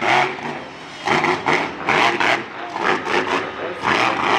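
Monster truck engine revving hard in repeated bursts, loud and rasping, with a low engine note underneath.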